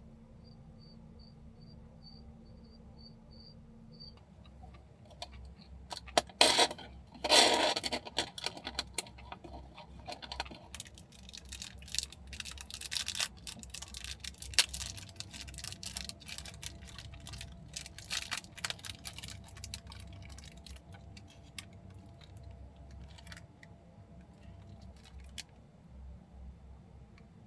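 Close handling noises: irregular rustling, clicking and clattering of objects being moved about, loudest in a burst a few seconds in, then thinning out. Before that, a faint high chirp repeats about three times a second.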